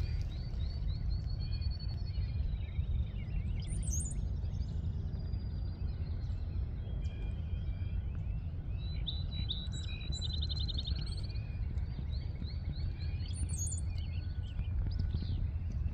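Several birds chirping and singing, with quick trilled phrases and scattered high chirps, over a steady low rumble.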